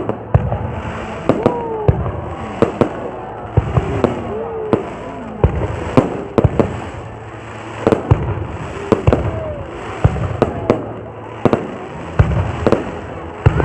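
Fireworks bursting: a string of sharp bangs at irregular intervals, some coming in quick clusters, over a steady background rumble.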